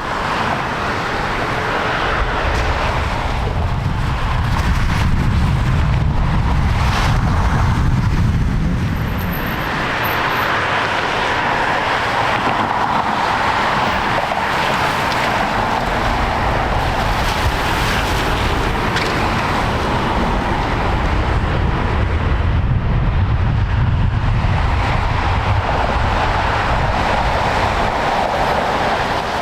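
Jet engines of an Airbus A321 airliner running on its lineup and takeoff roll, a loud steady rush with deep rumble swelling twice. Wind buffets the microphone over it.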